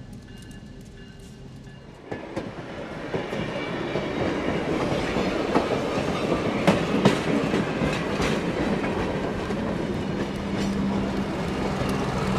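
Train rolling past, its wheels clicking over rail joints, starting suddenly about two seconds in and growing louder. A steady low drone joins near the end.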